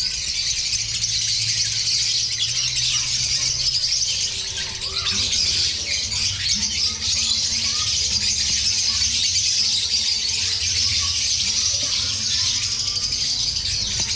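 A large flock of caged lovebirds chattering and squealing all at once in a continuous, high-pitched din.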